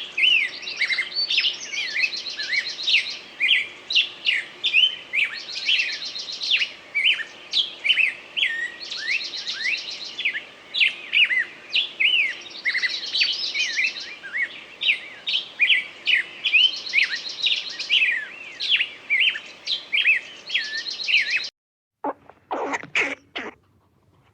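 Birds chirping busily: a dense run of short sweeping chirps with repeated buzzy trills. It cuts off suddenly near the end, followed by three short, separate sounds.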